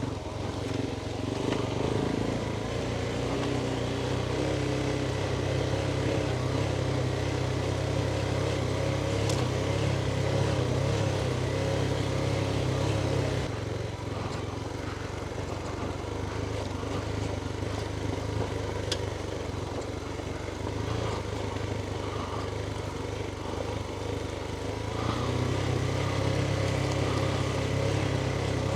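Motorcycle engine running at low, steady revs while riding a trail. The engine note drops back about halfway through and picks up again near the end.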